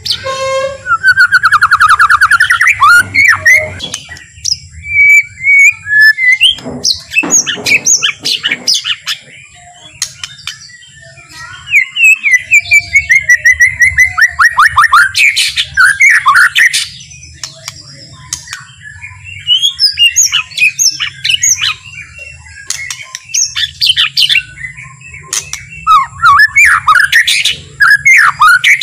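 White-rumped shama singing an unhurried, varied song: rapid rising trills, gliding whistles and chattering notes in bouts separated by short pauses.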